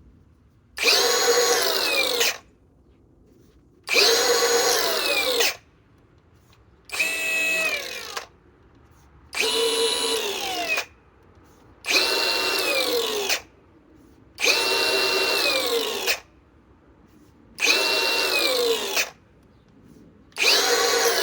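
Cordless angle grinder run in about eight short bursts, each spinning up to a high whine and quickly winding back down, with pauses between, as its speed setting is changed.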